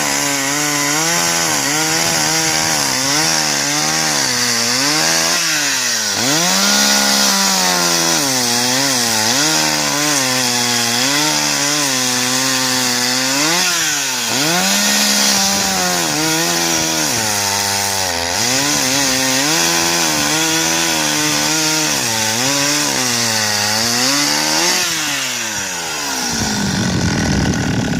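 Dolmar 111 two-stroke chainsaw cutting firewood, its engine pitch dipping under load and recovering over and over as it works through the wood. Near the end the engine drops back to idle.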